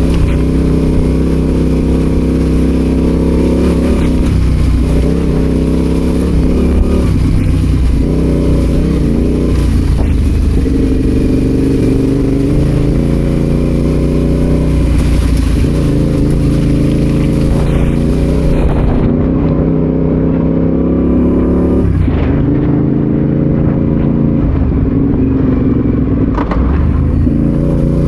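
Adventure motorcycle engine running while riding, its pitch stepping up and down over and over with throttle and gear changes.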